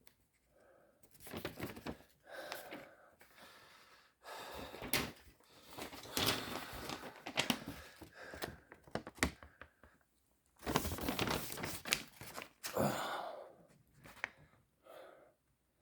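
Paper instruction sheets being handled: irregular rustling and crinkling in several bursts, with a gap about four seconds in and another about ten seconds in.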